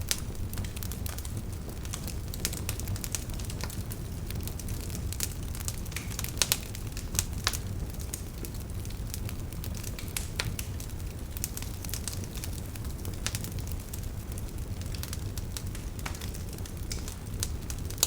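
Wood fire burning in a fireplace: a steady low rumble of the flames with irregular sharp crackles and pops, a few louder pops about six and seven seconds in.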